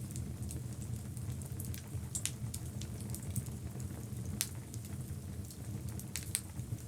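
Log fire burning in a fireplace, crackling: scattered sharp pops over a steady low rumble of flames. The loudest pop comes a little past halfway, with two quick pops near the end.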